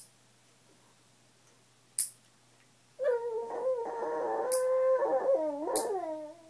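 Dog howling: one long, steady, high-held note that starts about halfway through and bends downward near its end. It is the 'alien like' noise he makes when left alone. Sharp short clicks come about two seconds apart.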